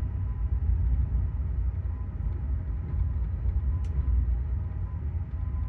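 Low, steady rumble inside a stationary passenger train car, with a faint thin steady tone and one short click about four seconds in.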